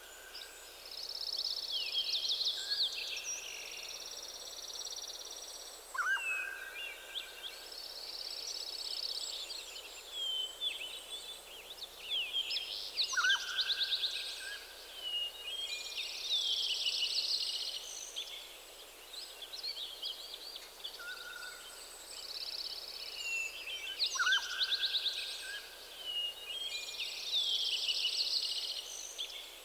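Several songbirds singing at once, with overlapping rapid trills and chirps. One bird's lower whistled phrase recurs about every six or seven seconds. A faint steady background hiss sits underneath.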